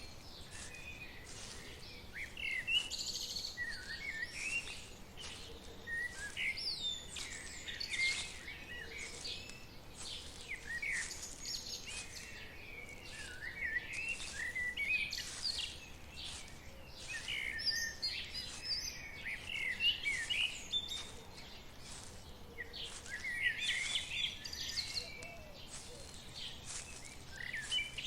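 Several birds chirping and calling at once in a woodland chorus, short quick notes overlapping without a break, over a faint steady background hiss.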